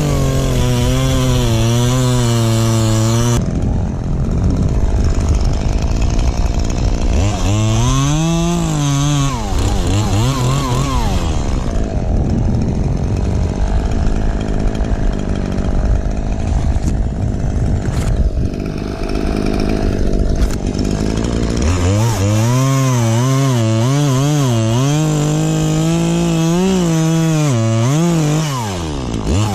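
Two-stroke chainsaw cutting oak wood, its engine pitch wavering up and down as the chain loads in the cut and frees again. For long stretches in the middle the clear engine note gives way to a rougher, grinding noise.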